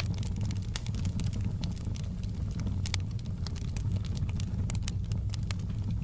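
Wood fire burning in a fireplace: a steady low rumble of flames under frequent, irregular sharp crackles and pops.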